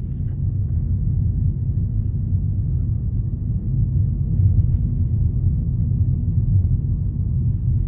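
Steady low rumble of a car driving, heard from inside the cabin as road and engine noise.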